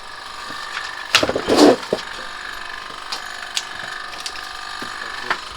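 Plastic clatter and cracking as an air conditioner's cover is unclipped, loudest about a second in, then a few single clicks. Under it runs the steady whine of the running air conditioner, which is making a really loud noise.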